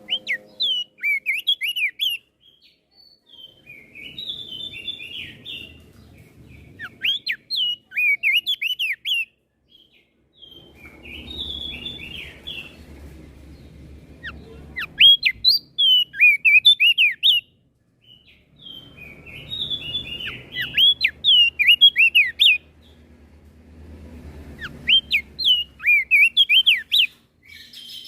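Opior jambul (crested white-eye) singing: short phrases of quick, sharp whistled notes sweeping up and down, a phrase every few seconds, with a faint low rumble between some phrases.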